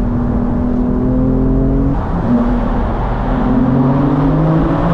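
Twin-turbo straight-six of a stage-1 tuned BMW M4 accelerating hard, heard from inside the cabin: revs climb, break at an upshift about two seconds in, climb again, and fall away near the end.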